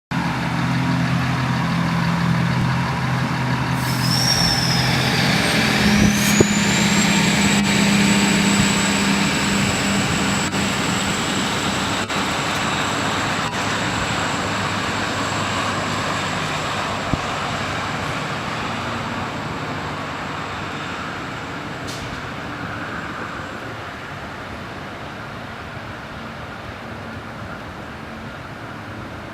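Endeavour diesel railcar pulling away under power: the diesel engine runs hard, a high-pitched whine rises about six seconds in and holds steady, and the sound slowly fades as the train moves off.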